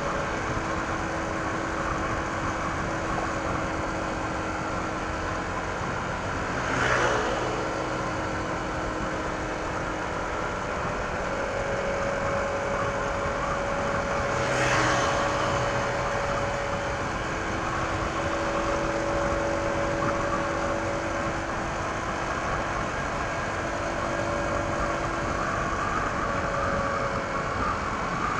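Honda ADV 160 scooter's single-cylinder engine on its stock exhaust, running at a steady cruise under wind and road noise. Two brief louder swells come through, about seven and fifteen seconds in.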